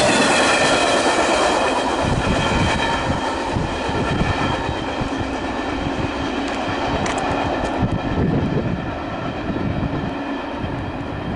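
BNSF double-stack intermodal train's last well cars rolling past and away: wheels clacking over the rails with a steady high wheel squeal, fading as the train recedes.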